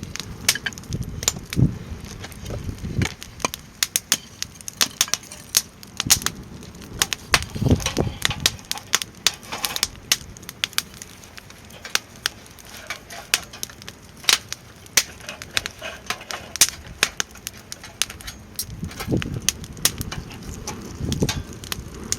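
Wood fire burning in a small steel fire pit, crackling and popping irregularly several times a second, with a few low rumbles of wind on the microphone.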